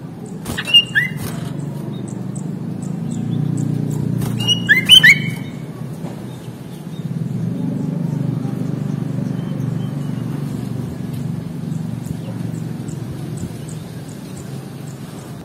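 Sooty-headed bulbul calling in two brief bursts of sharp, quick notes, about half a second in and again around four and a half seconds, over a steady low rumble.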